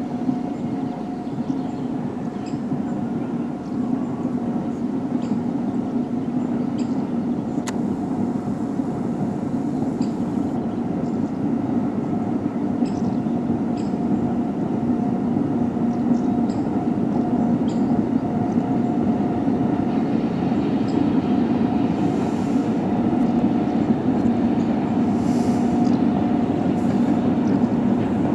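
Train approaching along the line: a steady rumble with a humming tone that grows slowly louder.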